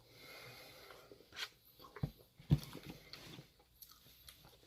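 Close-miked sounds of someone eating: chewing, with a few small mouth clicks and two low thumps about two and two and a half seconds in.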